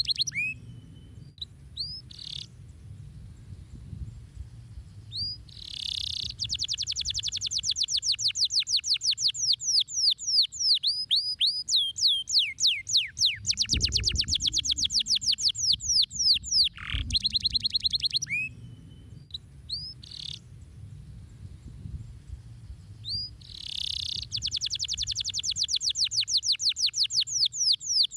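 Domestic canary singing: long, fast trills of rapid notes, about ten a second, broken by sharp downward-sweeping whistled notes. The same run of phrases comes round again partway through, as in a looped recording.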